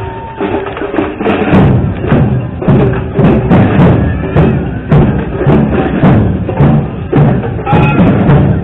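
Music with a loud, steady drum beat, strong low hits coming a little under a second apart, with faint held tones between them.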